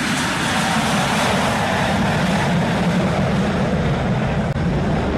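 Aircraft engines running loud and steady, a continuous rushing noise with a low rumble underneath.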